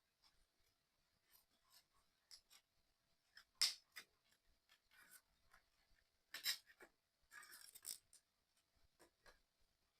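Faint, irregular clicks and scrapes of small model-kit pieces being handled and fitted together by hand. There are sharper clicks about three and a half and six and a half seconds in, and a short run of scraping clicks just before eight seconds.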